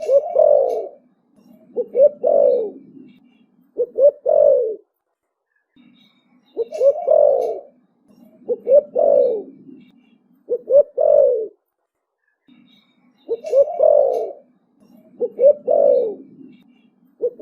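Young male spotted dove cooing: its call comes in sets of three phrases about two seconds apart, the sets repeating every six to seven seconds, with soft low notes in between.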